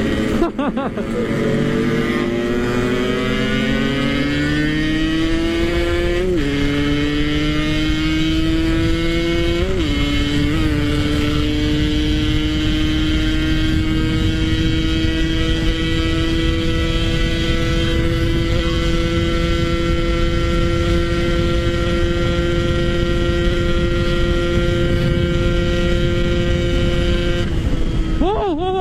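Yamaha RX-King's two-stroke single-cylinder engine under hard acceleration with a tin-can standard-style exhaust: the pitch climbs, dips twice as it shifts up, then holds steady and high at about 136 km/h top speed.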